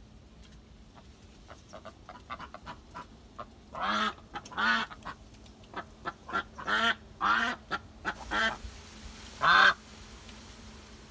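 A bird calling repeatedly: soft faint calls at first, then from about four seconds in a run of about eight loud, short calls, the loudest near the end.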